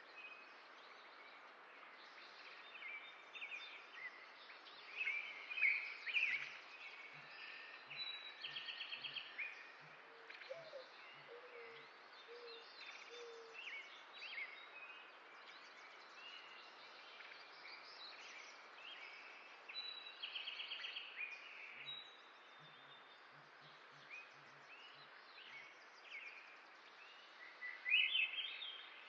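Several songbirds chirping and singing over a steady background hiss. There are two quick trills of repeated notes, and the loudest calls come a few seconds in and near the end.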